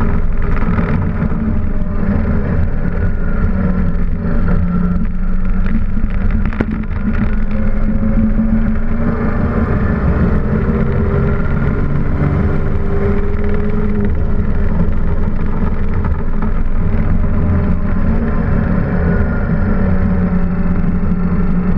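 Datsun Z-car race car's straight-six engine running hard at speed, heard from inside the stripped, roll-caged cockpit. The engine pitch climbs and falls repeatedly as the car accelerates, lifts and shifts around the track.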